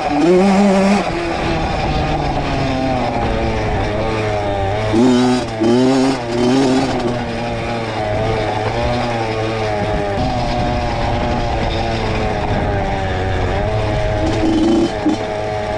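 Honda CR two-stroke dirt bike engine running under way, the revs rising and falling several times about a third of the way in, then holding steadier.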